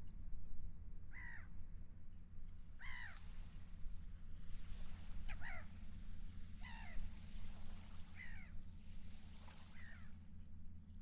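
Gulls calling, a series of short downward-sliding cries about every second or so, over a steady low rumble of wind and water.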